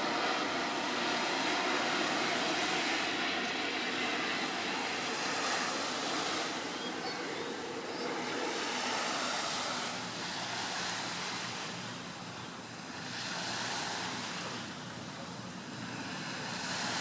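Airbus A350-900's Rolls-Royce Trent XWB turbofan engines heard in flight as a steady, wide rushing noise that swells and fades slowly.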